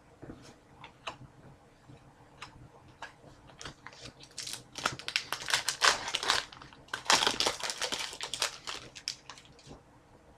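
Hockey card pack being handled: a few light clicks, then a dense crinkling and crackling of the pack wrapper for several seconds in the middle as it is torn open and the cards are pulled out.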